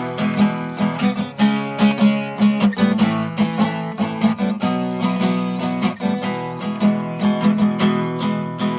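Acoustic guitar strumming chords in an instrumental passage of a folk song, with no voice.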